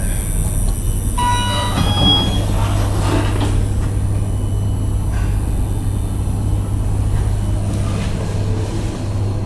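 KONE MiniSpace traction elevator running with a steady low hum, with a short electronic chime about a second in.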